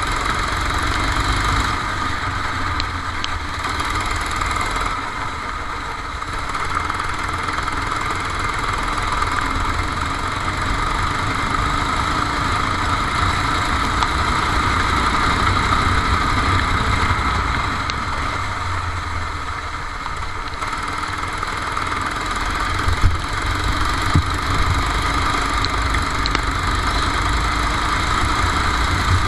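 Go-kart engine running throughout, heard from on board the kart, its level swelling and easing slightly as the kart goes around the wet track. Two brief sharp knocks late on.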